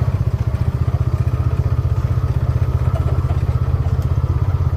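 Engine of the farm vehicle being driven, running steadily with a fast, low pulsing.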